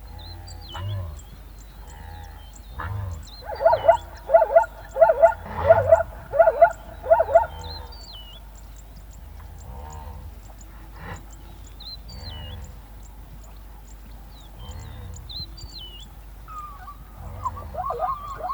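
An animal calling loudly about seven times in quick succession, roughly two calls a second. A weaker burst of calls comes near the end, over faint high chirping throughout.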